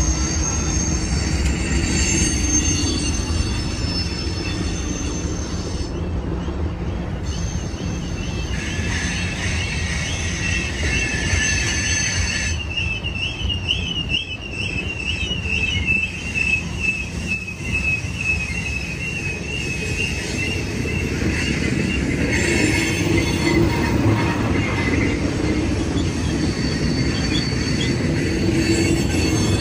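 Freight cars of a westbound BNSF unit train rolling past over a low steady rumble, their wheels squealing in several high, shifting tones. A wavering squeal runs from about a quarter of the way in to about two-thirds through.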